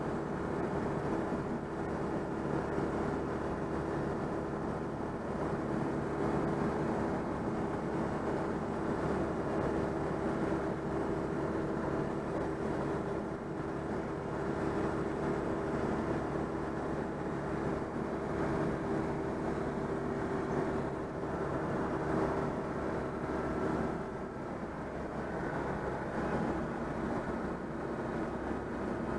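Citroën 2CV's air-cooled flat-twin engine running steadily at motorway cruising speed, a constant drone mixed with road and wind noise. About three-quarters of the way through the note drops slightly and the level dips briefly.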